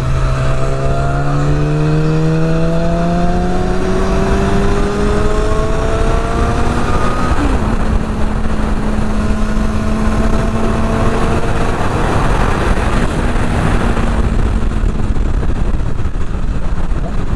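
Yamaha R6 sportbike's inline-four engine under way, its pitch rising gradually for the first five seconds or so, then holding steady at cruising speed with a brief blip about seven seconds in. Wind buffets the microphone throughout.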